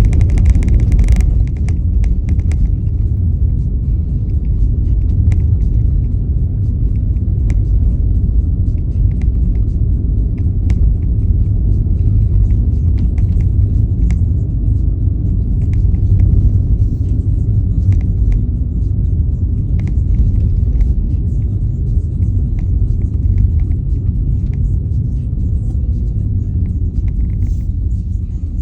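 Steady low road and engine rumble heard from inside a moving car, with scattered light ticks and clicks.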